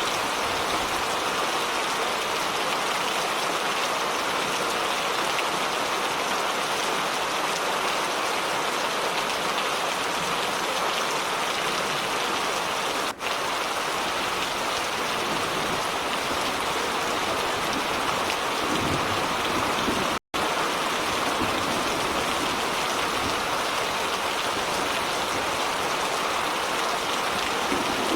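Steady rain pouring down and pattering on surfaces. The sound cuts out for an instant about 20 seconds in, and dips briefly about 13 seconds in.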